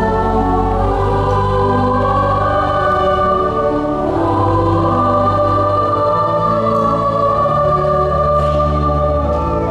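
A choir singing sustained, legato lines, accompanied by pipe organ holding long, steady bass notes.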